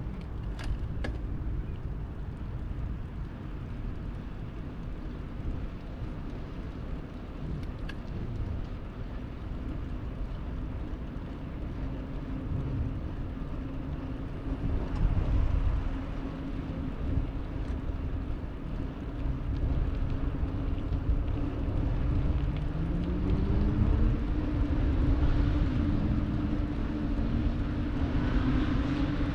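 Wind rumbling on the microphone of a moving bicycle, with passing motor traffic. In the second half a steady engine hum comes in, and other tones rise in pitch as vehicles speed up.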